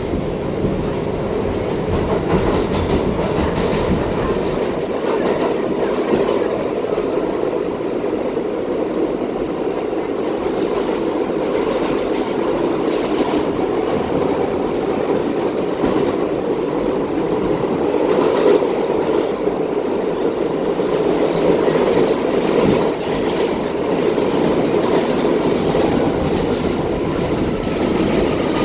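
New York City subway train running along the track: a steady, loud rumble with scattered clacks from the wheels over rail joints.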